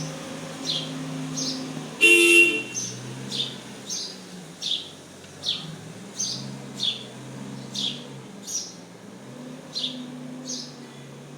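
A bird repeating a short, high chirp that drops in pitch, about once every three-quarters of a second. A vehicle horn toots once, briefly and loudly, about two seconds in, over a low steady hum of traffic.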